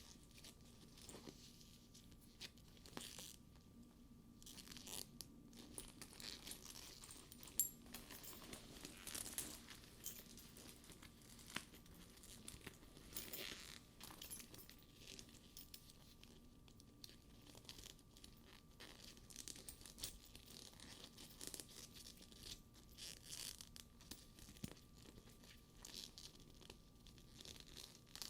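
Soft scratching and rustling of fingers handling a faux-leather purse and its straps, with light clicks of metal buckles and studs tapping together, one sharper click about seven and a half seconds in.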